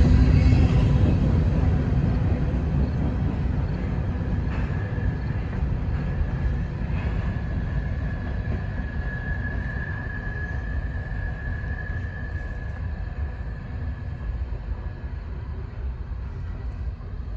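Norfolk Southern freight train rumbling past and slowly fading away, with a thin, steady high whine through the middle stretch.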